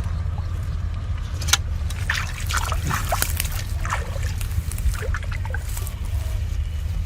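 Shallow field water splashing and sloshing in short irregular bursts as it is stirred by hand-fishing, over a steady low rumble.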